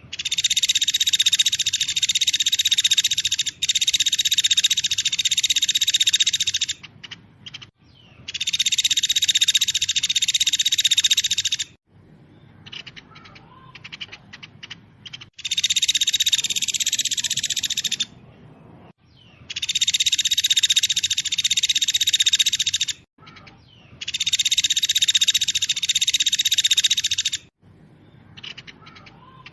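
A songbird singing a very fast, dense song in five bursts of about three to four seconds each, with short pauses between them.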